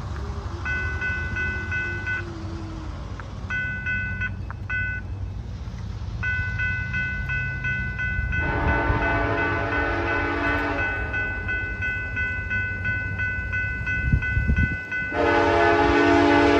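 Freight or passenger locomotive horn sounding two long blasts, the second and louder starting near the end, over the low rumble of an approaching train. Underneath, a grade-crossing bell rings in repeated runs, typical of the horn signal for a road crossing.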